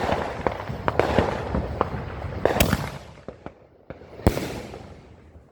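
Fireworks going off: a run of rapid crackling pops for about three seconds that thins and fades, then a single sharp bang a little after four seconds in.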